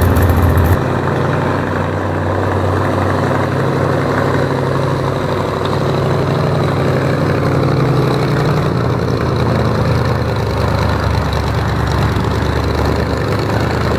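Ford Falcon gasser's engine idling as the car rolls slowly, a steady low rumble.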